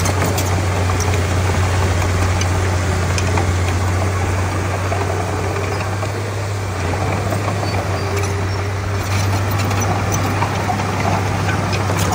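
Diesel engine of a Komatsu D31P bulldozer running steadily, a constant low drone with light scattered clicks.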